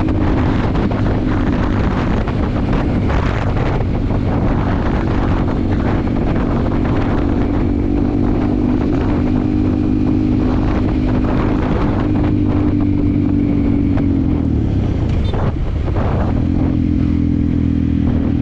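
Yamaha WR155R's single-cylinder four-stroke engine running at a steady pitch while riding, with wind buffeting the microphone. Near the end the engine note drops away as the throttle closes, then settles back to a steady pitch.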